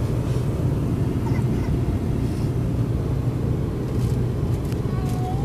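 Steady low rumble of an airliner's engines and airflow heard inside the passenger cabin, even and unchanging.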